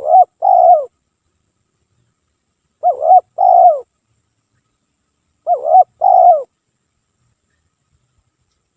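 Spotted dove (tekukur) cooing: three loud coo phrases about two and a half seconds apart, each of two notes, the second note longer and falling in pitch.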